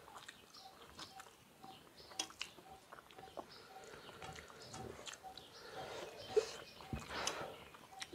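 Close-up eating sounds: chewing and small wet mouth noises, with fingers scraping food together on a steel plate, giving scattered soft clicks and one sharper pop a little after six seconds in. A faint short note repeats about twice a second in the background.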